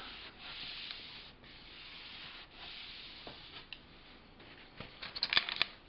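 Iron-on edging tape being rubbed firmly along the edge of a glass shelf so its melted glue sticks, a scratchy rubbing in three strokes of about a second each. A few sharp clicks follow near the end.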